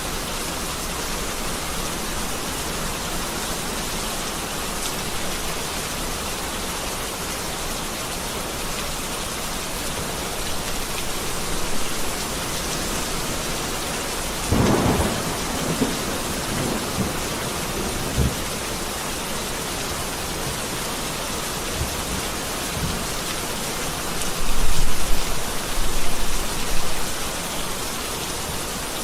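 Heavy rain falling steadily, with thunder: a louder clap about halfway through and deep rolling rumbles near the end.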